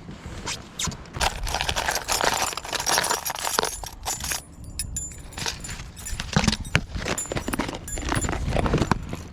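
Fishing gear being handled in a kayak: a run of clicks, knocks and light metallic jangling, with a short lull about halfway through.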